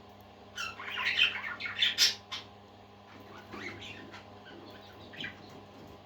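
Parakeets chirping: a loud flurry of short, high calls about half a second in, then softer scattered chirps, over a faint steady hum.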